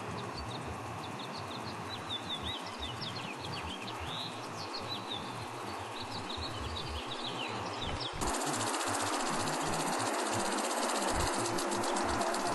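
Birds chirping in many quick, high calls over a steady outdoor hiss. About eight seconds in, the sound cuts abruptly to a louder, even hiss with no calls.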